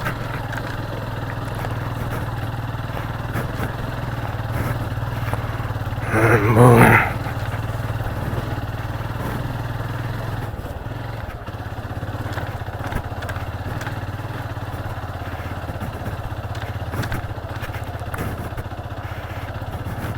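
Motorcycle engine running steadily at low speed, with a brief loud voice about six seconds in and the engine note dropping a little after about ten seconds.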